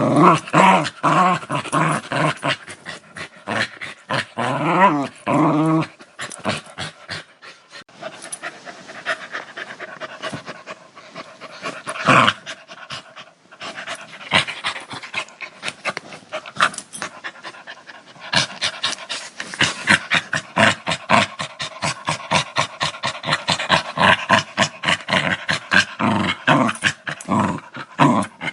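Dog growling in quick pulses: a pitched, rumbling growl for the first few seconds, a softer patch, then fast rhythmic huffing growls at about four a second over the last ten seconds.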